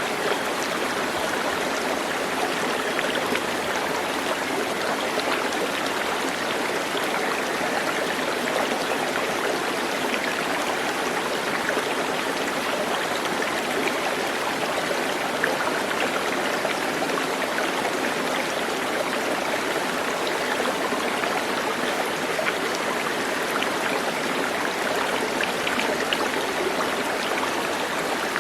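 Flowing water running steadily, an even rushing without pause or change.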